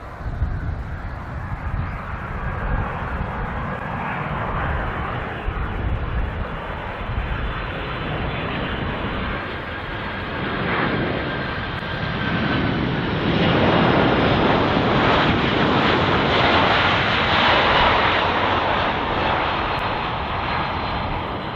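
Boeing 767-300 freighter's jet engines on landing approach. The roar builds to its loudest about two-thirds of the way in, then eases slightly near the end.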